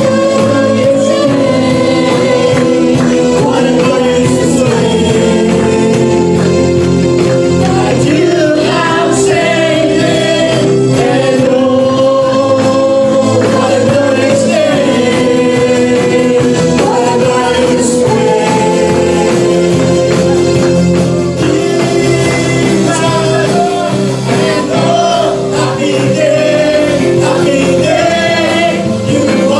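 Gospel worship song: voices singing over steadily held instrumental chords.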